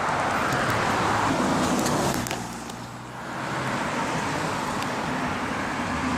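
Road traffic: cars going by with tyre and engine noise, easing off about three seconds in and then building again.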